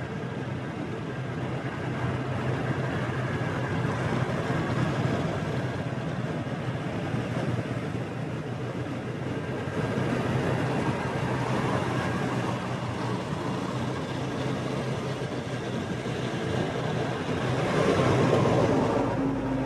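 Motorbike running steadily under a low engine hum, with road and wind noise and light city traffic around it. Near the end the sound swells louder for a couple of seconds as a vehicle passes close by.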